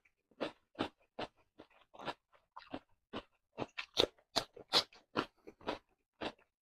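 Close-up crunching chews of raw cucumber slices, a run of crisp crunches about two to three a second, coming faster and loudest a few seconds in with a fresh bite.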